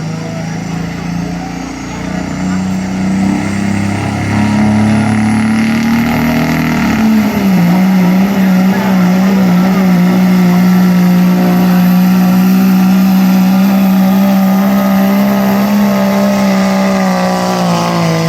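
Engine of a pulling vehicle at full throttle dragging a weight-transfer sled down the track. The revs climb over the first few seconds, dip briefly, then hold high and steady, and fall away near the end as the run finishes.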